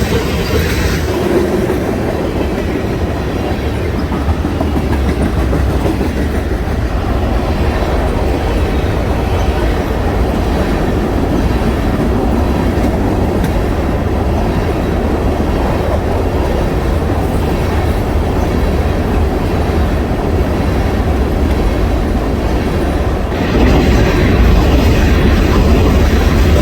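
A freight train's cars rolling past, their wheels clacking steadily over the rail joints. The sound grows louder near the end.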